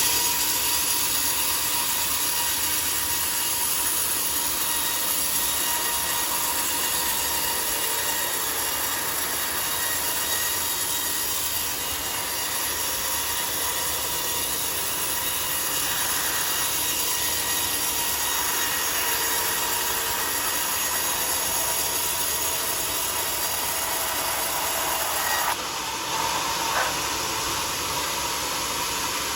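Sawmill saw running steadily through a teak log, a continuous noisy whine with high-pitched ringing tones; the tone shifts a few seconds before the end.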